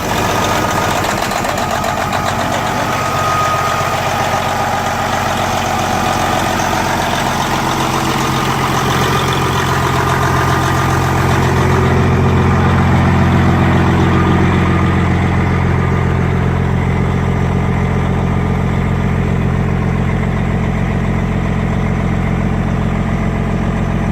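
Detroit 12.7 (Series 60) inline-six diesel truck engine idling steadily right after start-up, fresh oil just put in. Its low rumble grows stronger and fuller about halfway through.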